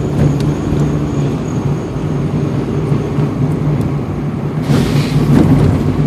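Car engine running with a steady low hum, heard from inside the cabin. A short burst of noise comes about five seconds in.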